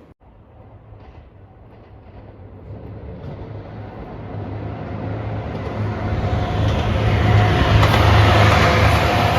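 JR 2700 series diesel limited express train approaching, its engine hum and running noise growing steadily louder over several seconds, with a steady higher tone joining in about two thirds of the way through.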